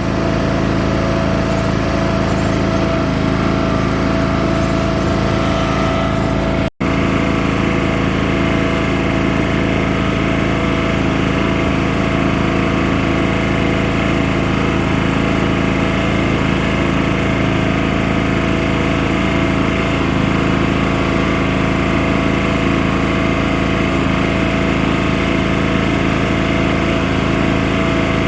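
Tractor engine running steadily at a constant speed, with a momentary gap in the sound about seven seconds in.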